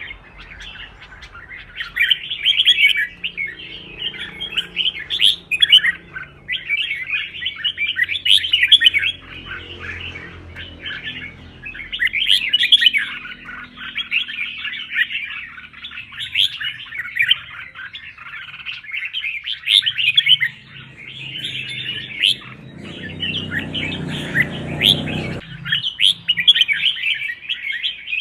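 Red-whiskered bulbul song: rapid, dense chattering and warbling phrases with only brief breaks. A low rumble joins for a couple of seconds near the end.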